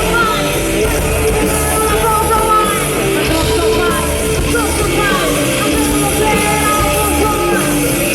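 Live rock band playing loud and steady, with distorted guitars, bass and drums, and a singer's voice over them.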